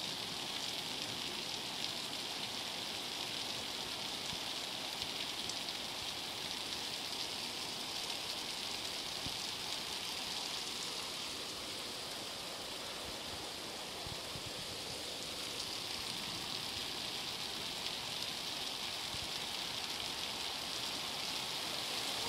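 Heavy rain pouring steadily, with floodwater rushing down the street.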